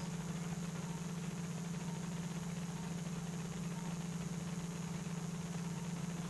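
Steady low machine hum of operating-room equipment, with a faint high hiss, unchanging throughout.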